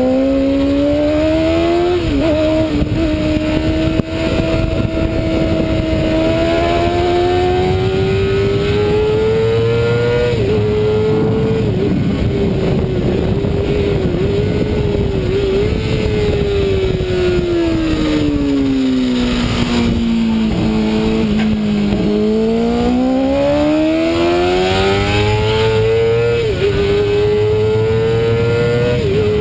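Racing sport bike's engine at high revs, heard onboard over steady wind rush. It pulls hard through the gears with short drops in pitch at each upshift, its revs fall away for a few seconds around the middle as it slows for a corner, then climb again through more upshifts.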